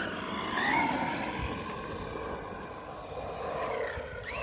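JLB Cheetah RC buggy driving, its brushless motor whine rising and falling with the throttle over tyre and drivetrain noise. It is geared with a 17-tooth pinion.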